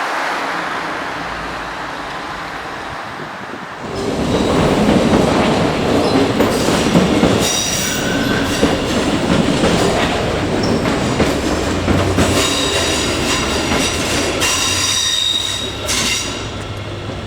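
A train passing close by, loud from about four seconds in: wheels clattering over the rails, with high steady wheel squeal through the middle, fading near the end.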